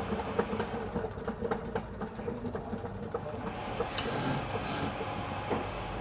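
Wood lathe running, with a steady motor hum and many irregular clicks and scrapes over it; the sound drops off right at the end.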